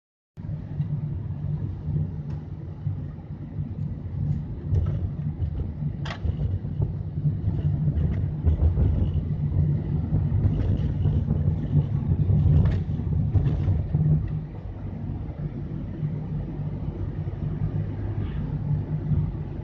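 Car driving along a highway: a steady low rumble of engine and road noise, with a few faint clicks.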